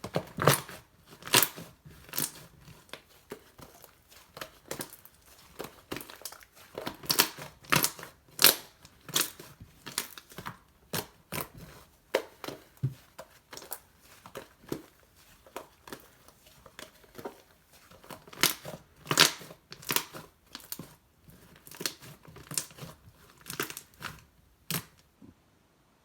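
Slime being squeezed and pressed by hand, making a steady run of irregular sharp clicks and pops from air pockets. The pops stop shortly before the end.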